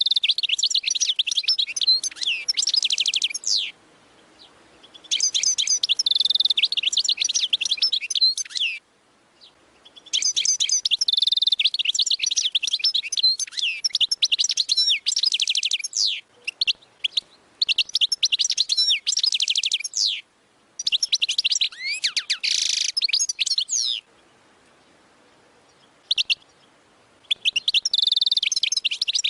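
European goldfinch singing its 'wadi' (oued) style song: rapid high twittering and trilling phrases of a few seconds each, broken by short pauses.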